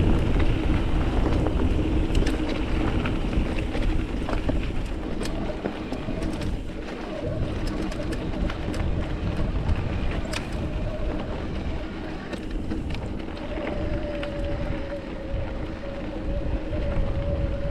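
Mountain bike rolling over a rocky trail, with wind rushing over the microphone, a steady hum and scattered sharp clicks and rattles.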